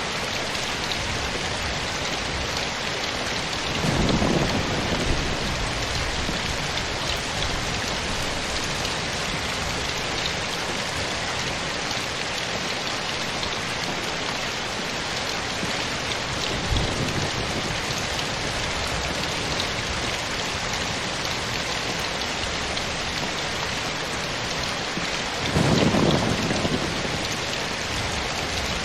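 Steady rain falling, an even hiss of many drops. Two short low rumbles rise over it, about four seconds in and again near the end, with a faint thump in between.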